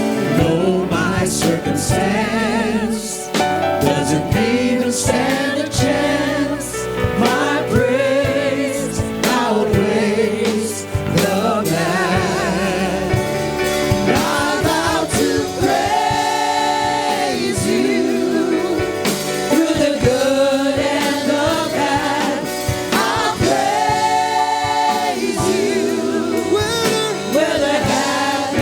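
Gospel choir and congregation singing with instrumental accompaniment, voices holding long notes with vibrato.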